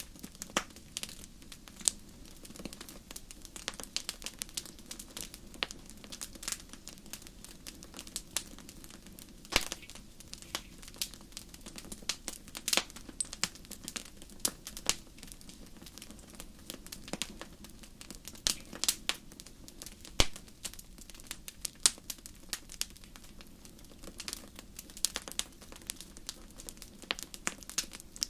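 Wood fire crackling in a fireplace: irregular sharp pops and snaps, some much louder than others, over a faint steady low noise.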